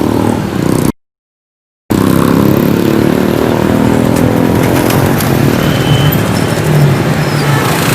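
Motor vehicle engine running close by, a steady low rumble of traffic noise. The sound cuts out completely for about a second near the start.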